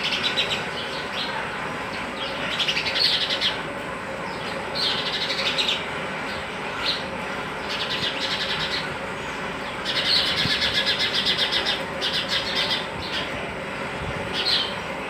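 Sparrows chirping in repeated bursts of quick, high chirps, the longest burst about ten seconds in, over a steady background noise.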